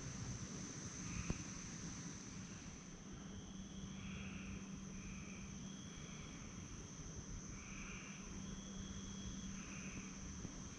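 Faint evening insect chorus: a steady high trill with repeated short chirps and brief higher notes, typical of crickets and katydids at dusk. A single short click about a second in.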